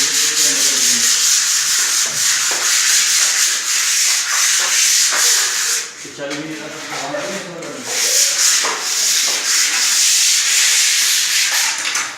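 Sanding with 150-grit sandpaper on a pad: a steady, loud rasping rub that dips briefly about six seconds in.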